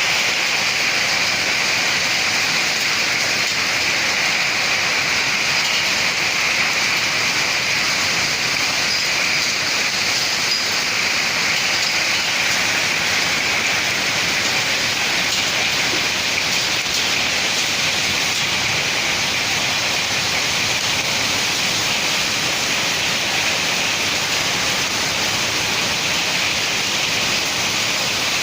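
Heavy rain and wind of a severe storm: a steady, even rush that does not let up.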